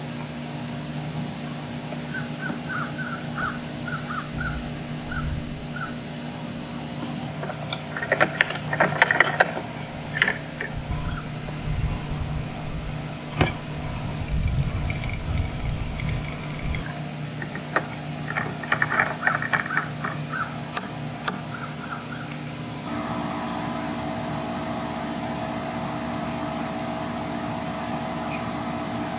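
Crows cawing, in two bouts of harsh calls about eight and eighteen seconds in, over a steady background hum.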